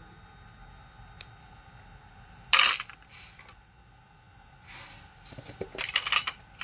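Small hard parts of a rotary hammer being handled and set down on a bench: a click, then a sharp clack about two and a half seconds in, and a run of clinks and rattles near the end.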